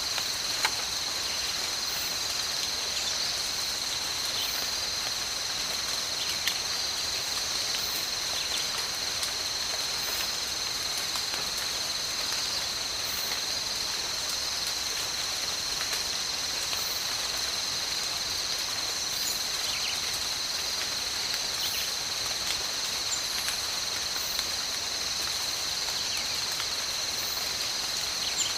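Steady tropical rain with a continuous insect chorus droning on two steady high tones over it, and a few faint scattered ticks.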